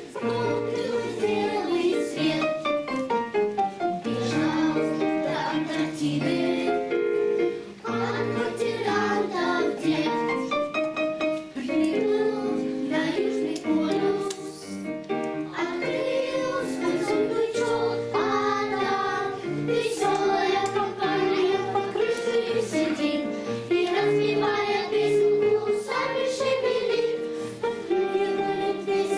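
Children's choir singing a Russian song with instrumental accompaniment.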